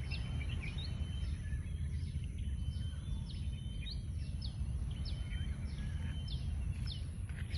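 Birds calling, a run of short, high chirps that sweep downward, about two a second, over a steady low outdoor rumble.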